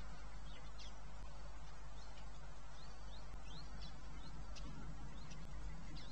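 Birds giving short, high, rising chirps again and again at irregular intervals, over a steady background hiss and low hum.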